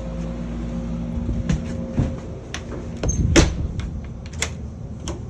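Furnace-based air-conditioning system running with a steady hum whose tone shifts about a second in and fades out by about three seconds in. Several clicks and knocks follow, the loudest about three and a half seconds in.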